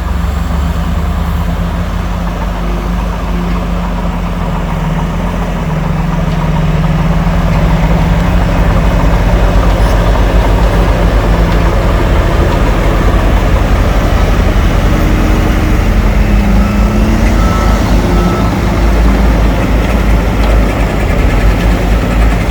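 Heavy earthmoving machinery's diesel engine running steadily under load. It grows louder about seven seconds in.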